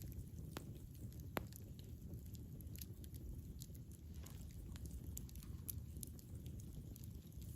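Campfire burning: a low steady rumble from the flames, with irregular sharp crackles and pops from the burning wood, the loudest about a second and a half in.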